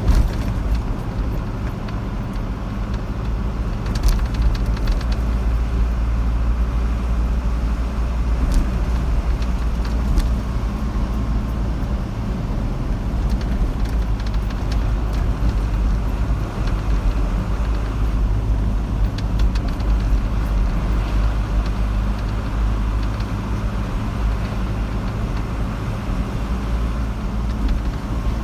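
A car driving along a road: steady low engine and tyre rumble with a constant low hum and a few faint ticks.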